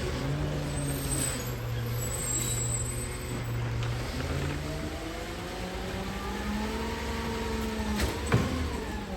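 Garbage truck engine running, its pitch falling and rising slowly as it revs, with a sharp knock near the end.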